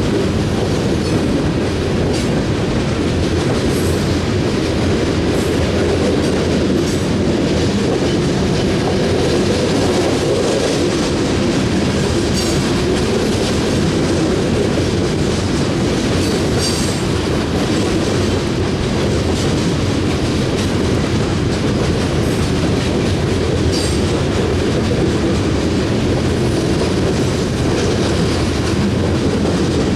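Coal cars of a long freight train rolling steadily past: a continuous wheel rumble and clickety-clack over the rail joints, with a few brief high wheel squeals.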